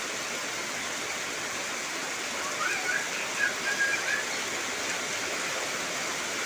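Heavy rain falling steadily, a dense even hiss. A few short high-pitched tones rise above it about midway.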